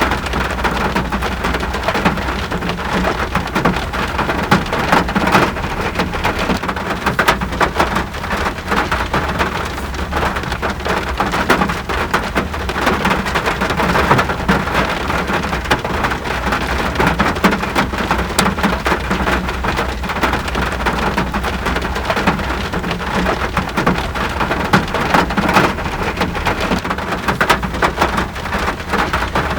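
Steady rain falling, a dense patter of drops over an even hiss, with a steady low rumble underneath.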